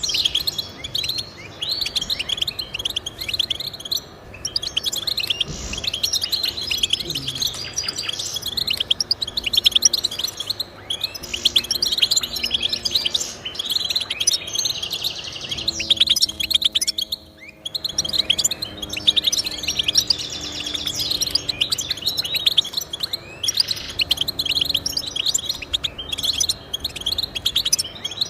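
Goldfinch singing: a fast, continuous stream of twittering chirps and trills, with a short break about seventeen seconds in.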